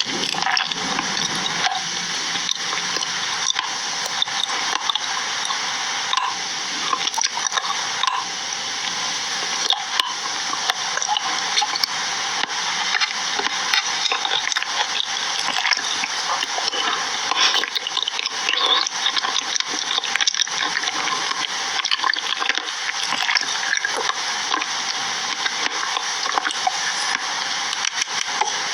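Continuous hissing noise dense with fine crackles, steady in level throughout.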